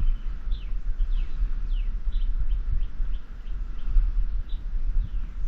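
A bird chirping over and over, short falling notes about two or three a second, over a steady low rumble.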